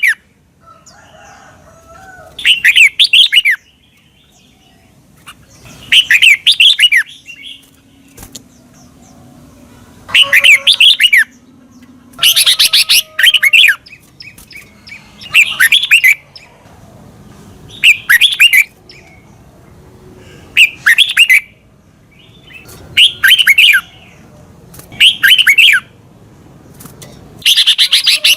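Red-whiskered bulbul singing: short, loud warbling phrases of quick up-and-down notes, repeated about every two to three seconds.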